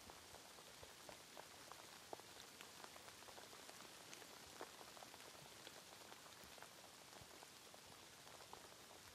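Faint steady rain: an even hiss with many separate drops ticking, a couple of sharper drops standing out about two and four and a half seconds in.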